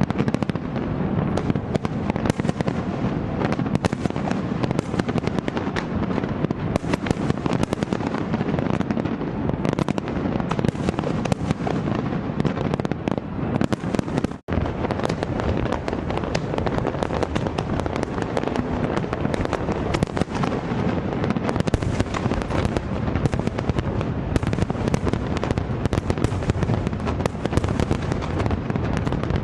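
Fireworks going off in a dense, continuous barrage: many bangs and crackles overlapping without a pause, with a split-second dropout about halfway through.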